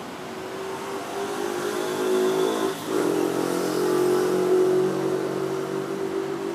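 Yamaha TZR50R's 50cc two-stroke single revving through an aftermarket expansion-chamber exhaust. The pitch climbs, drops for an instant about three seconds in, then rises again and holds before easing off.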